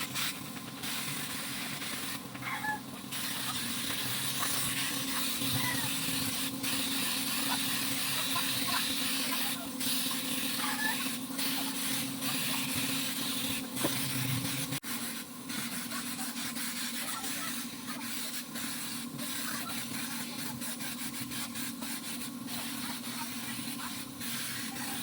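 Steady hiss broken by many brief pauses, over a low steady hum.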